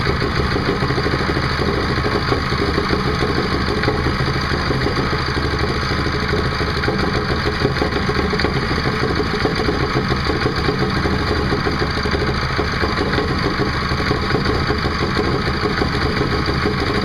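Predator 6.5 hp single-cylinder 212 cc OHV small engine running steadily at an even speed, just after being pull-started on its first cold start out of the box.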